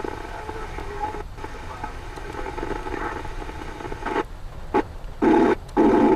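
Police scanner radio hissing between dispatch transmissions, then a few short, sharply keyed bursts of radio noise near the end, the last two the loudest.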